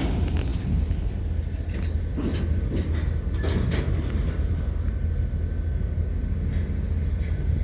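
Train in a railyard: a steady, low rumble with a few sharp metallic clanks, mostly near the start and about three and a half seconds in.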